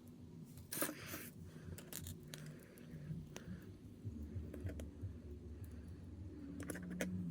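Small plastic model-kit parts being handled and fitted together: scattered light clicks and scratching, with a short rustle about a second in.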